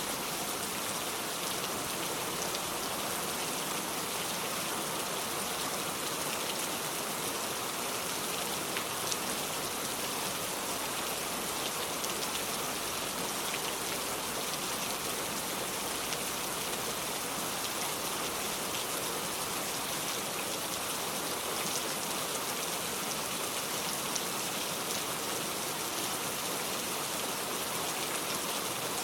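Steady rain falling, a constant hiss with many small drop ticks and no let-up.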